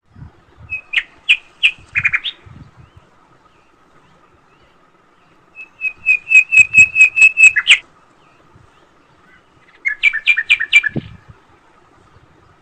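A small bird chirping in three bursts of rapid, evenly spaced sharp notes, about four seconds apart. The middle burst is the longest and loudest.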